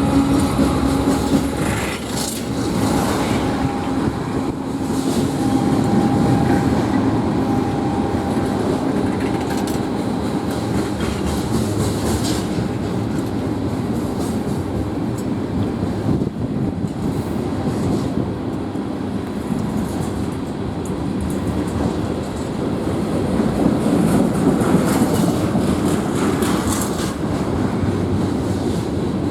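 Freight train cars rolling past: a steady rumble of steel wheels on rail, with scattered clicks as wheels cross rail joints. A humming tone fades out in the first couple of seconds.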